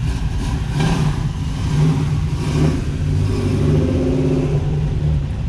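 Chevrolet Camaro Z28's V8 engine running as the car drives slowly past, a steady low drone with a couple of brief louder swells.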